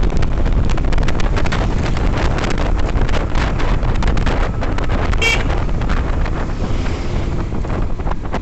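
Wind buffeting the microphone of a Yamaha FZS V3 motorcycle on the move, over a low rumble of road and engine. A brief high-pitched beep comes about five seconds in, and the rush eases off near the end.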